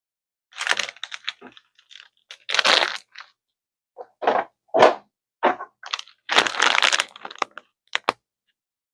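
Packaging crackling and crinkling in irregular bursts as it is handled, with a few sharper cracks in between.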